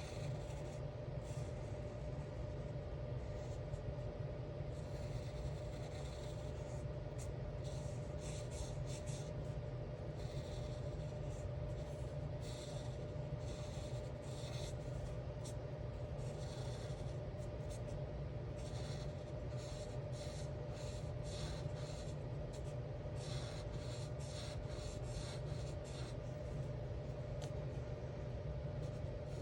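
Alcohol marker tips stroking across coloring-book paper in quick back-and-forth strokes, coming in clusters, over a steady low hum.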